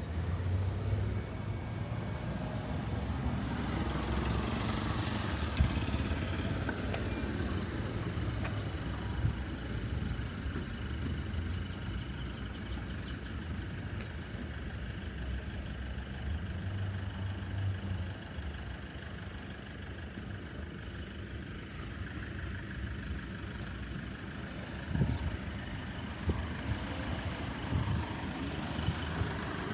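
Street traffic: cars and other motor vehicles running past with a steady low engine rumble that swells and eases as they go by, with a few sharp knocks over it.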